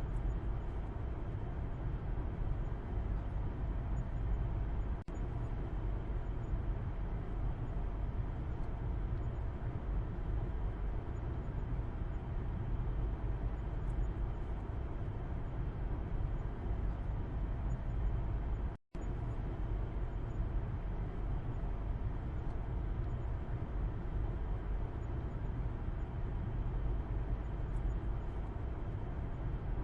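Inside a moving car, heard from the back seat: a steady low rumble of road and engine noise while driving. The sound briefly cuts out to silence about nineteen seconds in.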